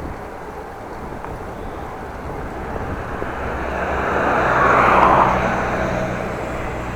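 A motor vehicle passing on the road: its tyre and engine noise grows louder to a peak about five seconds in, then fades, over a steady background of traffic noise.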